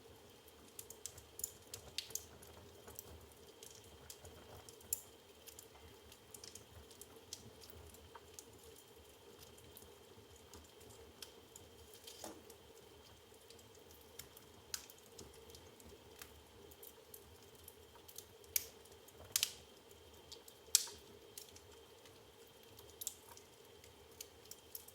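Burning firewood crackling in an open fireplace: scattered small snaps and pops, with a few louder pops about three-quarters of the way through.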